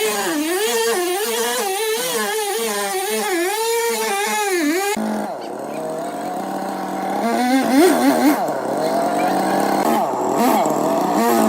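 Background music with a wavering melody for about five seconds, then an abrupt cut to sawmill machinery running, its pitch sliding down and up as it works.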